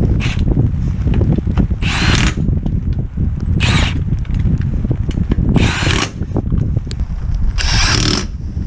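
A power tool running in four short bursts about two seconds apart, over a heavy rumble of wind on the microphone.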